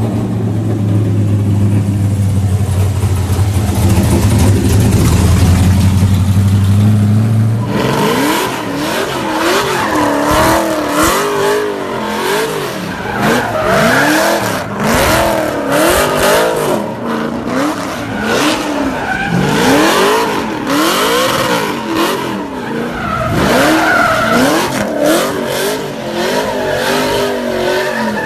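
NASCAR truck's V8 engine running at a steady note, then, about eight seconds in, revving up and down over and over, with tyres squealing, as the truck does donuts.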